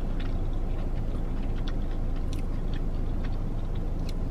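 Close-up chewing of a sauce-dipped chicken finger, with small irregular mouth clicks, over a steady low hum in a car's cabin.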